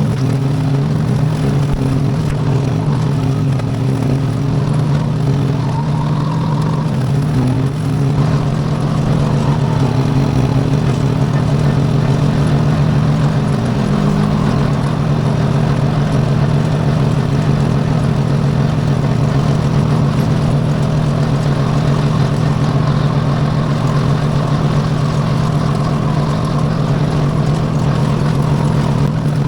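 Iseki compact tractor with a swapped-in Briggs & Stratton V-twin engine running steadily under load, driving a rotary bush hog mower.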